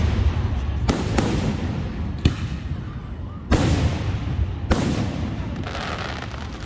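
Fireworks going off: a string of about six sharp bangs at irregular intervals, each trailing into a low rumble.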